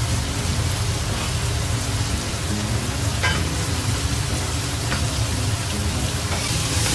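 Diced meat sizzling steadily in hot oil in a large pot while it is stirred with a metal spatula, with julienned carrots added about halfway. There is a low hum underneath and a couple of brief clicks.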